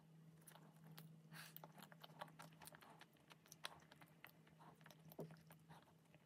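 Quiet close-up chewing and biting of a coconut-flaked milk chocolate bar with a soft milky filling: many small wet mouth clicks and smacks, over a faint steady low hum.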